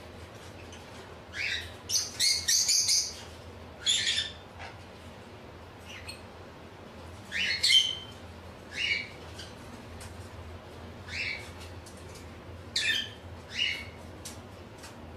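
Bird chirping and squawking in short, high-pitched calls, about a dozen at irregular intervals, some in quick clusters, over a faint steady low hum.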